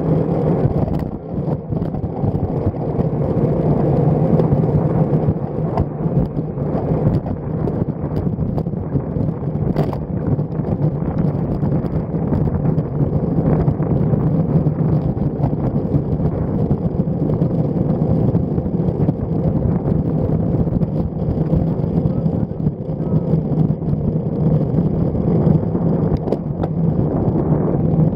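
Steady rush of wind and road noise on a stem-mounted action camera's microphone while riding a road bike, mostly low in pitch with a constant low hum.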